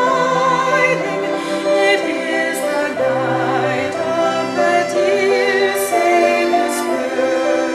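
Choir singing a slow piece in several parts, held chords changing every second or so, with vibrato in the upper voices.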